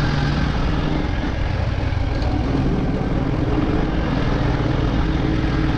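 Motorcycle engine running steadily while riding, with an even rush of wind and road noise.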